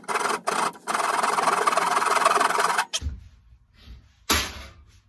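Hand saw cutting into a hardwood axe handle: a few short strokes, then about two seconds of steady sawing that stops suddenly. A single sharp knock follows near the end.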